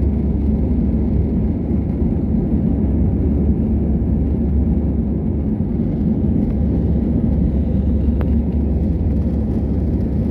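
Steady, loud low rumble of an airliner's engines and airflow during takeoff, heard as cabin noise. There is a brief faint click about eight seconds in.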